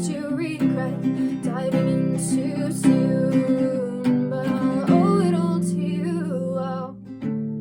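Acoustic guitar strumming chords with a voice singing a slow melody over it; near the end the singing stops and the guitar chord rings on alone.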